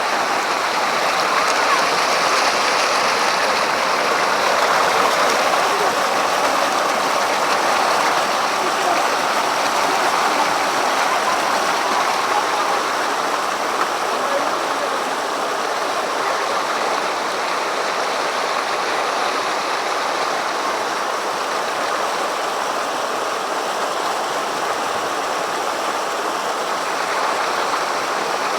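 Steady, unbroken rush of water falling from a tall waterfall.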